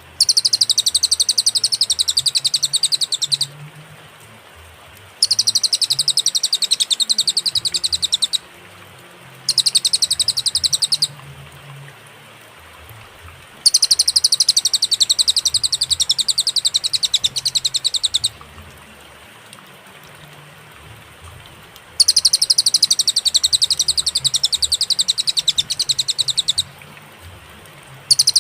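A cililin songbird singing bursts of very rapid, high trilling notes. The phrases last from about one and a half to four and a half seconds, with pauses of one to four seconds between them.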